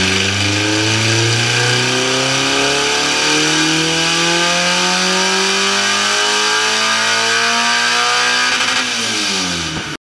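Honda B20 four-cylinder fitted with Crower 404 camshafts at full throttle on a chassis dyno, its revs climbing steadily in one long pull. About nine seconds in the throttle closes and the revs drop, then the sound cuts off suddenly.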